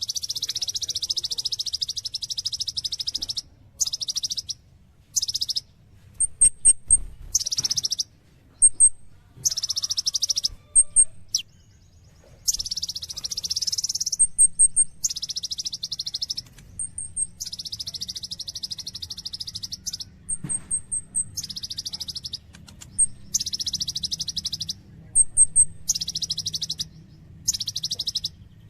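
Kolibri ninja sunbird singing: long buzzy trills broken by short gaps, alternating with quick groups of two to four high, thin chips.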